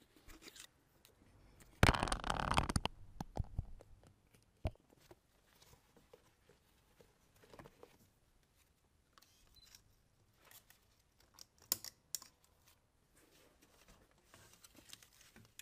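Hand-work handling noises: a loud scraping rustle lasting about a second and a half, about two seconds in, followed by scattered sharp clicks and knocks.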